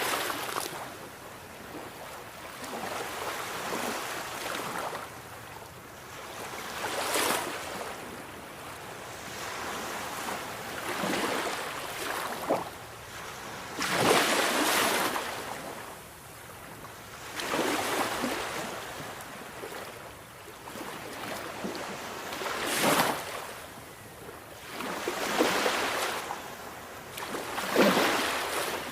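Sea waves breaking and washing in, in surges that swell and fall away every few seconds.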